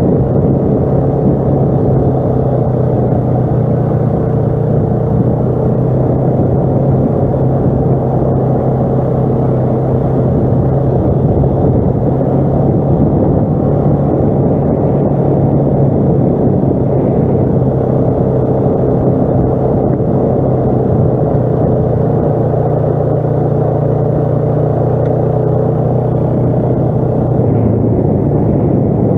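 ATV engine running at steady revs: a loud, even drone with a rough rumble underneath, pitch holding nearly constant throughout.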